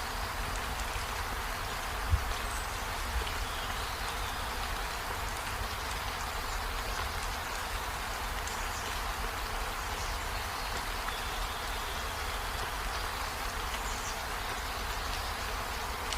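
Steady rain falling, an even hiss of drops with a low rumble underneath and a single short thump about two seconds in.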